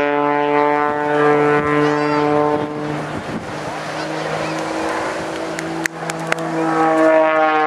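Aerobatic biplane's piston engine and propeller droning overhead, the pitch dropping about three seconds in and shifting again near the end as the plane manoeuvres and passes. A few sharp clicks come a little before the end.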